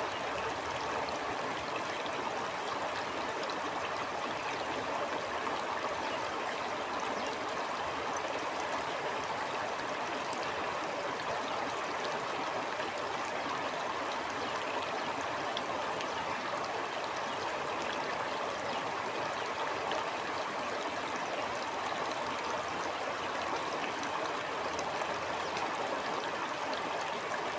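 Stream water flowing steadily over rocks, an even rushing with fine trickling detail.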